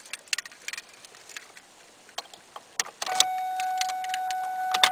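Small clicks and taps from the key being handled and put into the ignition of a 2010 Ford Ranger, then about three seconds in a steady electronic warning tone from the dashboard starts and holds.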